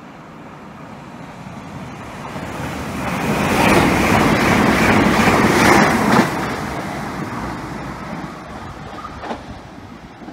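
Trenitalia "Jazz" electric multiple-unit train running past along the station platform: a rushing sound of wheels on rail and moving air that builds steadily, is loudest for a couple of seconds around the middle, then falls away.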